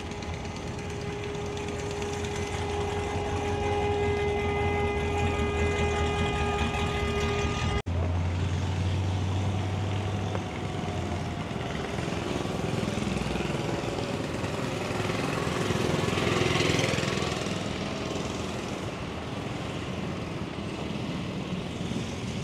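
Motor vehicle engines running, with a steady engine hum at first. After a sudden break about eight seconds in, a vehicle passes close by, loudest a little past the middle.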